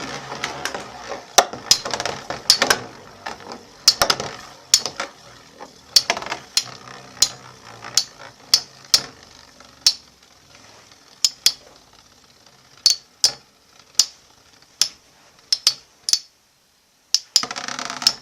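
Two metal Beyblade spinning tops, Storm Pegasus and Dark Wolf, battling: a whirring hiss broken by sharp metallic clacks as they collide. The clashes come thick at first and grow sparse as the tops lose spin, dying out about sixteen seconds in.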